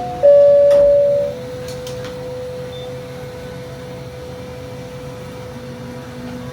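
Inside a train cab, a loud electronic chime note holds for about a second, then cuts to a steady low hum with a faint constant whine and a few light clicks.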